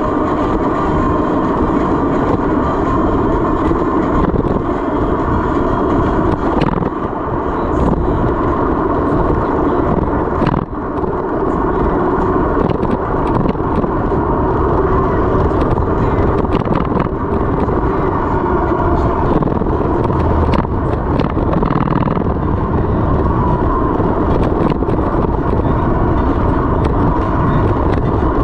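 Steady wind rush on the microphone of a camera carried on a moving mountain bike, with small rattles and knocks from the bike over rough trail.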